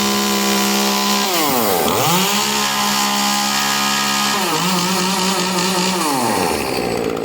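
Echo 2511T top-handle chainsaw's two-stroke engine held at high revs. The revs dip sharply and pick back up about two seconds in, then fall away near the end. It sounds snappy with the spark arrester screen taken out of the muffler.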